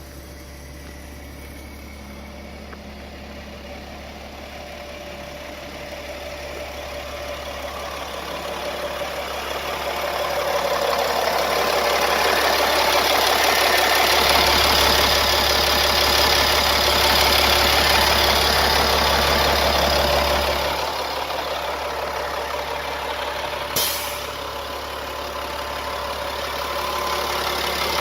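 2002 Blue Bird school bus engine running. It grows steadily louder over the first ten seconds or so, holds, then drops back about twenty seconds in. There is one sharp click a few seconds later.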